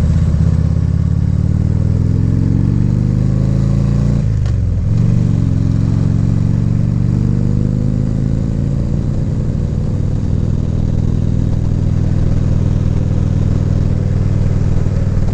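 Harley-Davidson Ultra Limited's V-twin engine heard from the rider's helmet while riding: the engine note falls as the bike slows, breaks briefly about four seconds in, then rises as it accelerates and settles into a steady cruise.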